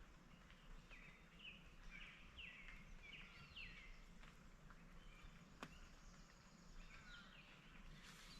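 Faint birdsong outdoors: a string of short, quick chirps, a few more near the end, over near-silent background hum, with one sharp click a little past halfway.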